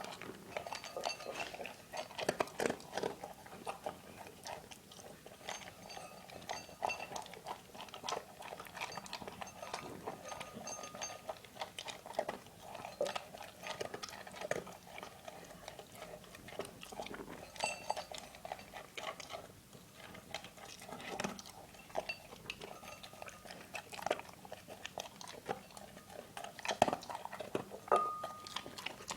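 Dog eating: irregular chewing and crunching, with clinks against its bowl.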